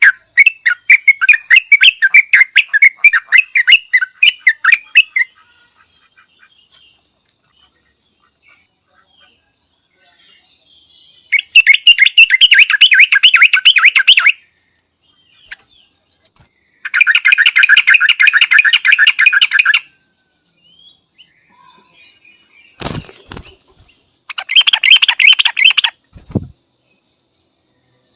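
Yellow-vented bulbul calling: four bouts of rapid, repeated chattering notes, each a few seconds long, with pauses between. Two short thumps come late on.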